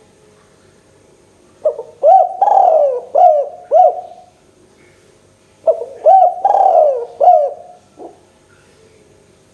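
Spotted dove (tekukur) cooing: two phrases of about five low, rhythmic coo notes each, a few seconds apart.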